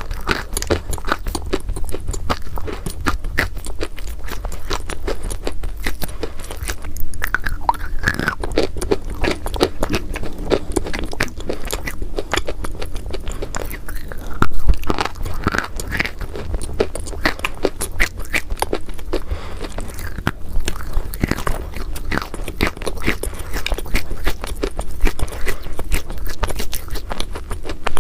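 A person biting and chewing crunchy chalk: a dense, continuous run of crisp crunches and crackles, with a steady low hum beneath.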